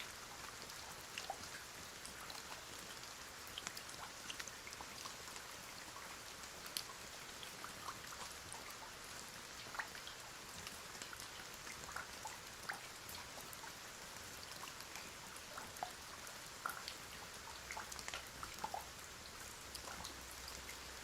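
Rain falling: a steady soft hiss with many separate drops ticking at irregular moments.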